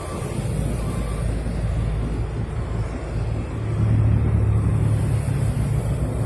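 Grass trimmer engine running steadily, getting louder about four seconds in.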